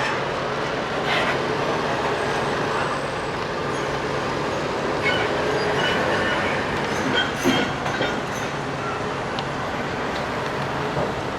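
Heavy vehicle running past, a steady noise with a few short knocks and clicks about halfway through.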